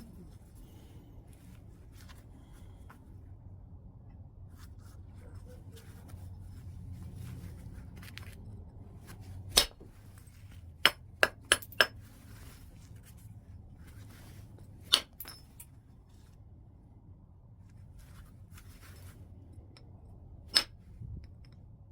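Sharp, glassy clinks of a percussor striking white chert as it is knapped into a stone tool. The blows come one at a time, with a quick run of four about eleven seconds in.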